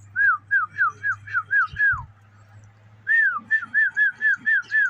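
A person whistling rapid runs of short, falling notes to call pigeons: about seven quick whistles, a pause of about a second, then another run of about eight.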